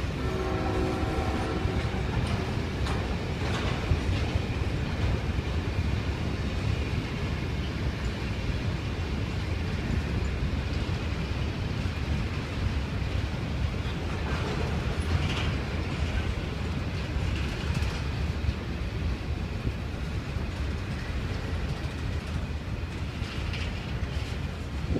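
Freight train of hopper wagons rolling past: a continuous rumble of steel wheels on the rails, with a short pitched whine in the first two seconds.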